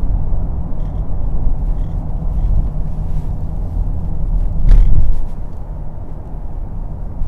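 Steady low rumble of a Mercedes GLS 400d on the move: its inline-six diesel engine and road noise. A louder thump comes about two-thirds of the way through.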